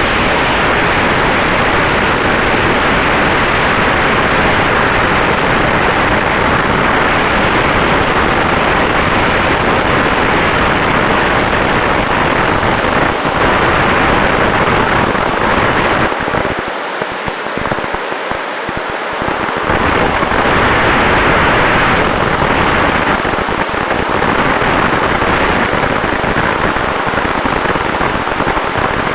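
Loud, steady rush of airflow and propeller noise from an electric Sonex Xenos aircraft in flight, with a faint steady tone underneath. The low rumble eases briefly about two-thirds of the way through.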